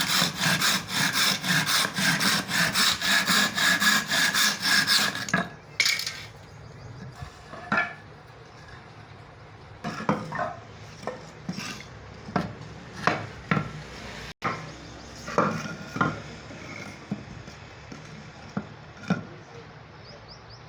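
Handsaw cutting through wood with quick, even strokes, about four a second. About five seconds in the sawing stops, and scattered light knocks and taps of wood pieces being handled follow.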